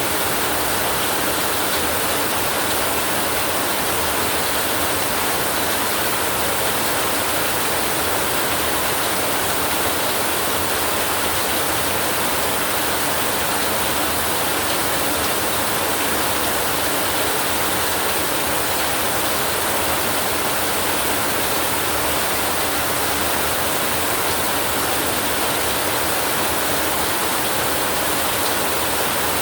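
Heavy rain falling steadily, an even, unbroken hiss with no thunder in it.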